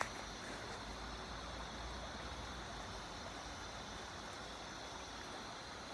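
Faint steady hiss with a low rumble beneath it and thin, steady high tones, unchanging throughout.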